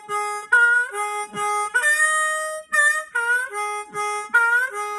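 Harmonica playing a melody of short notes, several of them bent upward in pitch.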